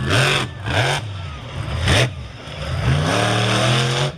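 Monster truck engine revving hard in quick up-and-down blips, with three short loud bursts of noise in the first two seconds. From about two and a half seconds in the revs climb and hold high.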